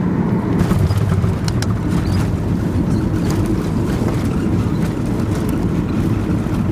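Steady low rumble of engines and airflow heard inside the cabin of a Boeing 737-800 in flight, with scattered clicks and rattles from about half a second in.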